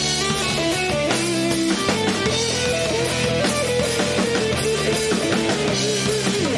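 Rock band playing live: a guitar carries a melody over bass and a drum kit at a steady, full level.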